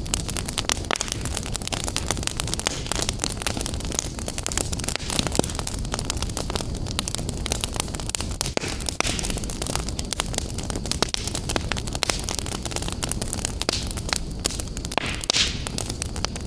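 Wood fire burning in a fireplace: a dense, irregular run of crackles and sharper pops over a low rumble of flame.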